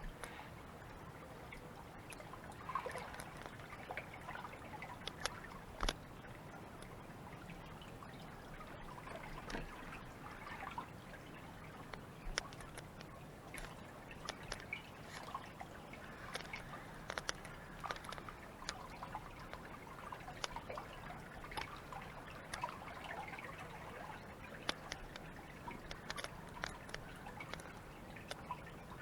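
Water trickling and dripping, with many small irregular drips and splashes over a steady wash of running water.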